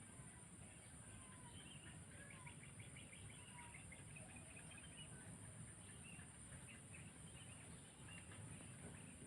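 Faint birds chirping: many short chirps and brief whistles, over a steady high-pitched hiss.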